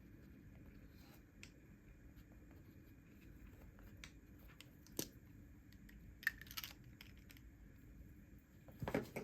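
Faint paper and stationery handling: scattered light taps and clicks, a short run of paper crinkles a little past the middle, and a louder brief rustle near the end.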